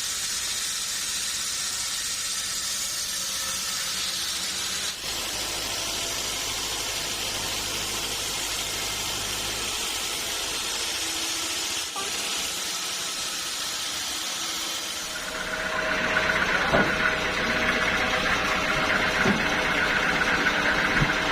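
Sawmill saw machinery running on teak wood, a steady hissing noise. About fifteen seconds in the sound changes and grows louder, with a steady high hum.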